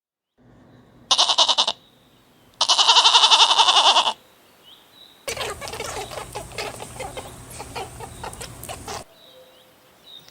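Two loud, quavering animal calls, the second longer, followed by several seconds of quieter rustling and clicking.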